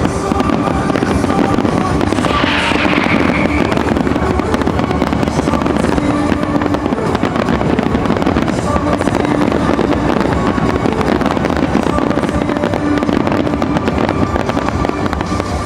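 Fireworks display with shells bursting and crackling in rapid, unbroken succession, over show music playing at the same time.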